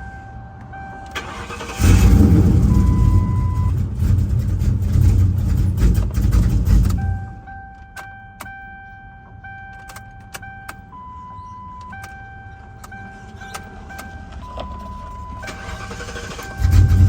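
Ford Crown Victoria 4.6-litre V8 cranking and catching about two seconds in, then running loud and rough through its leaking exhaust before cutting out abruptly about five seconds later. It cranks and fires again near the end. These are test starts after replacing the fuel pump driver module to cure a fuel pump fault.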